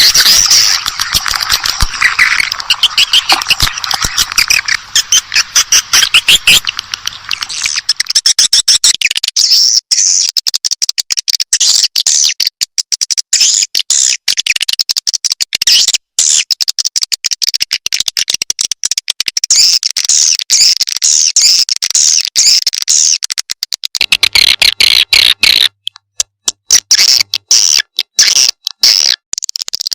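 Recorded swiftlet calls: rapid strings of high, clicking chirps and twitters, fuller for the first several seconds and then higher and thinner, with short breaks near the end. This is a lure call track of the kind played in swiftlet houses to draw swiftlets in and get them to answer.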